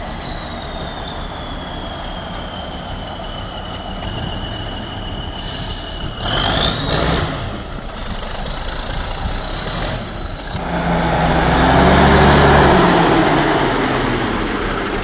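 Heavy truck engine running under load, with a high whine that slowly falls in pitch and then rises sharply about seven seconds in. About ten seconds in, a louder, deeper engine rumble takes over and swells before easing off.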